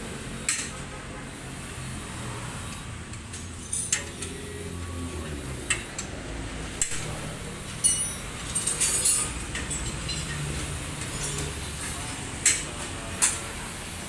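Metal tools and parts clinking and knocking against each other, in short irregular strikes with a small cluster about two-thirds of the way through, over a steady low hum.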